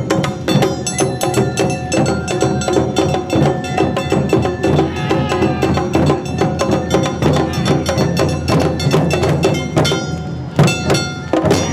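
Awa Odori festival band (narimono) playing: drums and a small clanging hand gong keep a fast, driving beat under a melody line. The music changes and thins out right at the end.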